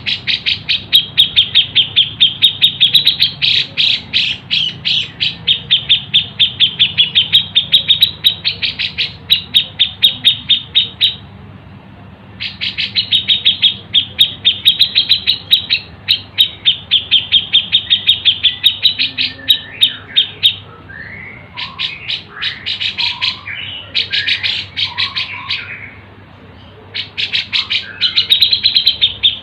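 Songbird tutor recording mixing cucak jenggot (grey-cheeked bulbul), sparrow and siri-siri calls: long fast runs of sharp, high chirps with short pauses between them. About two-thirds through, a more varied phrase of gliding notes takes over, then the quick chirping returns near the end.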